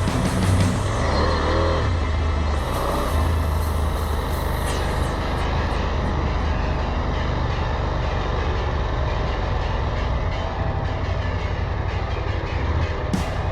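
A vehicle driving along a road: a steady low engine drone with road and wind noise, and a few brief wavering squeals in the first couple of seconds.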